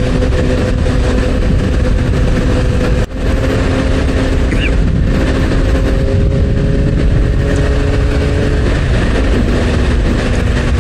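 Motorcycle engine running at a steady highway cruise under heavy wind and road noise. The engine note creeps up slightly, then drops back about nine seconds in. The sound cuts out for a moment about three seconds in.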